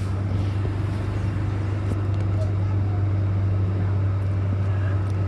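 MTR M-Train electric multiple unit running between stations in the underground tunnel: a steady low rumble with a faint constant hum over it.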